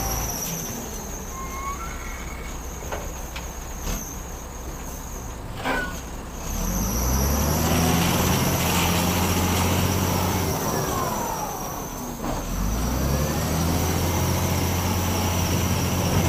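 Heavy diesel engine of earthmoving equipment running low for several seconds, then revving up about six seconds in and holding, easing off briefly near twelve seconds and revving again. A few short knocks sound in the quieter first part.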